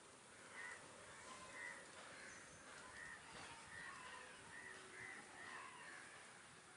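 Faint outdoor bird calls: a series of short calls repeating about once or twice a second.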